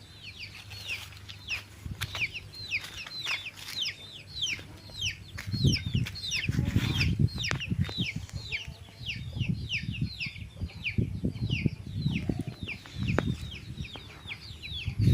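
Young chicks peeping continuously, many short high notes each sliding downward, several a second from more than one bird. Bouts of low rumbling noise come and go over them partway through and near the end.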